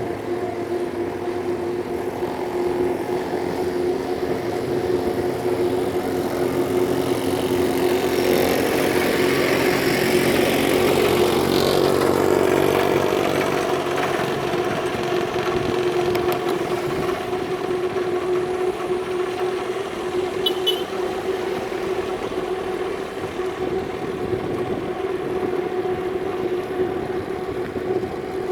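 Street traffic heard from a moving bicycle: a steady engine hum throughout, with a louder vehicle passing about ten seconds in and a brief high double tick about twenty seconds in.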